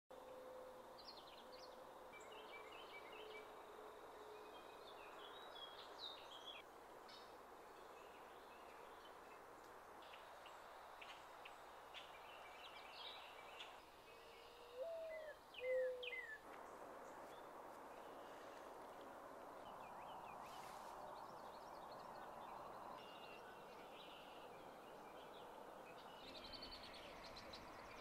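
Faint outdoor ambience with small birds chirping and calling. About halfway through comes a louder, lower call that bends up and down.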